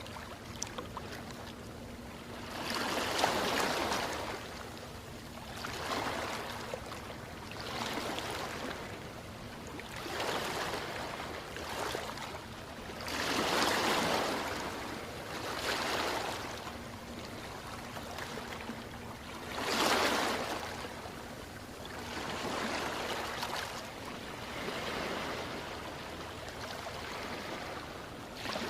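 Small ocean waves washing in one after another, the noise swelling and fading every two to three seconds, with bigger surges about three seconds in, near the middle and about two-thirds of the way through.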